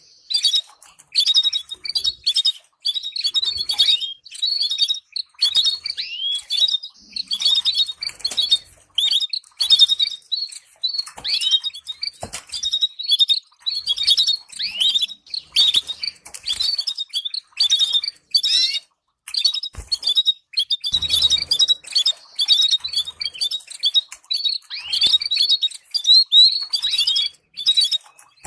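Canary singing a long, fast song of rapid chirps and trills with only brief pauses: a training song played to teach young canaries to sing.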